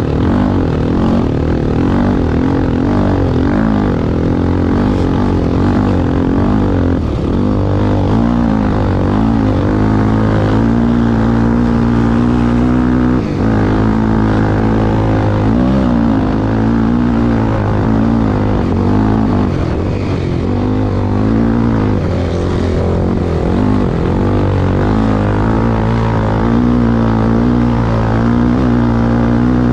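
Engine of a sand-racing vehicle running loudly, its revs rising and falling over and over without a break.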